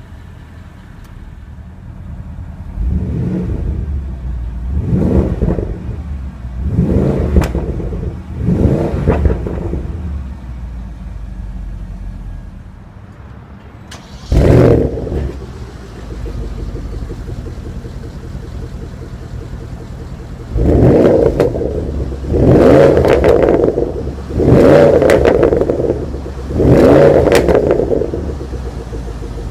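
Porsche Panamera Turbo's 4.8-litre twin-turbo V8 idling after start-up, then revved. There are four quick revs in the first ten seconds, one sharp blip about halfway through, and four longer, louder revs near the end, each dropping back to idle.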